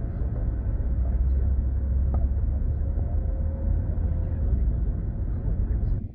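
Car cabin noise while driving: a steady low rumble of engine and road, thinning out suddenly at the very end.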